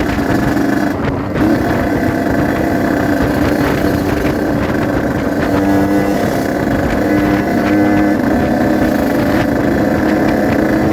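Two-stroke single-cylinder engine of a Yamaha RX-King 135cc motorcycle running under way. Its pitch shifts a little with the throttle.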